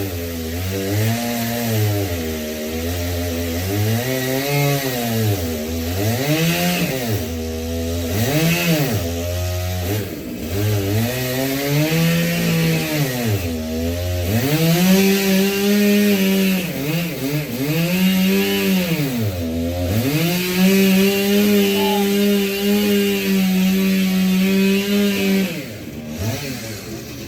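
Two-stroke chainsaw engine revved up and down over and over, then held at full speed for about five seconds before dropping back near the end.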